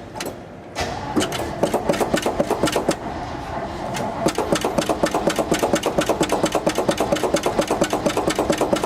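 1970 GMC pickup's engine being cranked over on the starter, starting about a second in with a quick, even rhythm that doesn't catch. The engine won't fire on a cold start, which the owner puts down to a worn-out carburetor.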